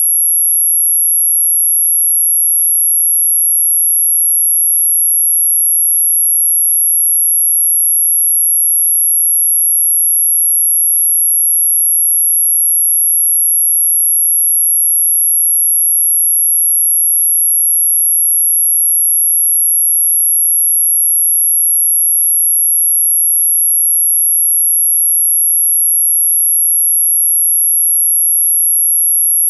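A single steady, very high-pitched electronic sine tone, unbroken and unchanging, of the kind played as an anti-mosquito repellent sound.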